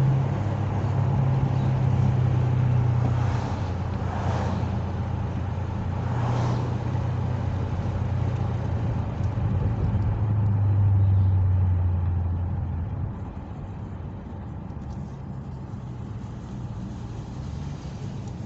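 A muscle car's engine running at low revs with a deep steady drone, the level swelling and easing a few times, then dropping back quieter about two-thirds of the way through.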